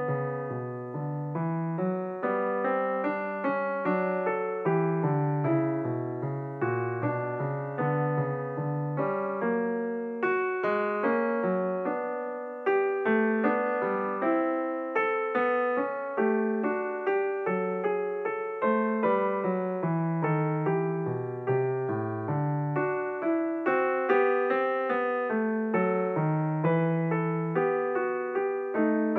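Instrumental background music played on a piano-like keyboard: a melody of struck notes that die away, over a lower moving accompaniment.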